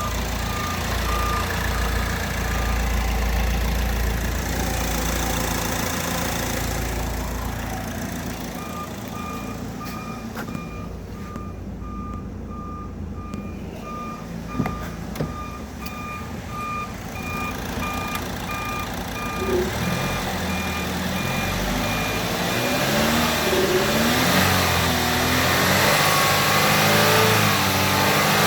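2011 Chevrolet Malibu engine idling while a dashboard warning chime beeps over and over at an even pace, stopping and starting again. In the last several seconds the engine is revved up and down repeatedly.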